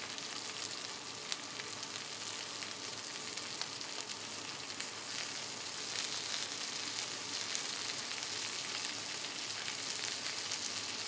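Chicken wings and slider patties frying in grease on a flat-top griddle: a steady sizzle with fine crackling.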